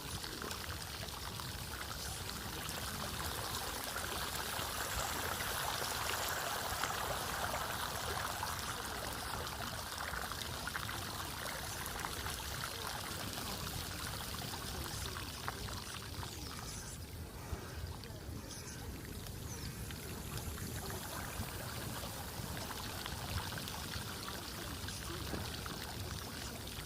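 Floodwater running steadily, a continuous pouring sound that swells for a few seconds about five seconds in.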